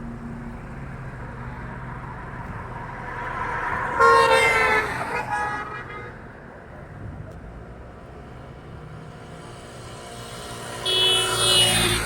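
Vehicle horns honking twice over steady road traffic noise: a long horn blast about four seconds in, falling slightly in pitch as it passes, and another near the end.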